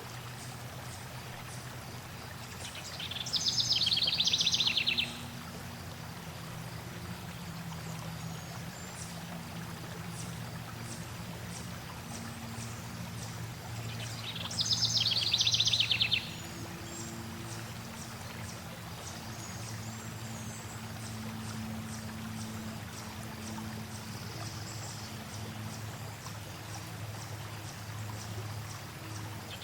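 Steady flowing water, with a songbird twice singing a loud, rapid trill about two seconds long, a few seconds in and again near the middle, and faint high chirps in between.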